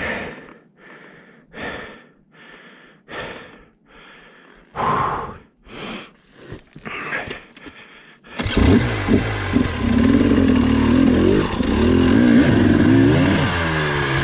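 A rider panting hard, one heavy breath about every second. About eight seconds in, a KTM two-stroke dirt bike engine comes in suddenly and runs loud, revving up and down, its pitch dropping near the end.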